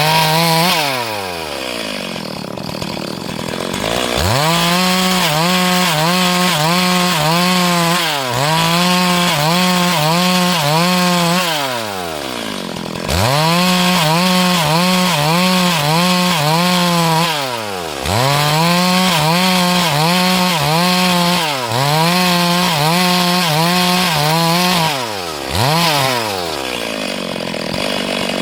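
Two-stroke chainsaw cutting lengthwise through a log to mill lumber. It is held at high revs for a few seconds at a time, its pitch wavering under load, and is throttled down and revved back up about every four seconds.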